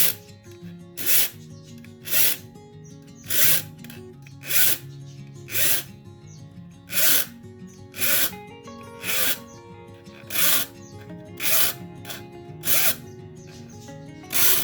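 Steady rasping strokes of a hand tool working on a saw or wood, about one stroke a second, over background music.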